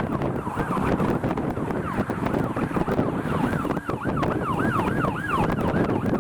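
Emergency vehicle siren in a fast yelp, its pitch sweeping up and down about three times a second, over steady wind buffeting the microphone.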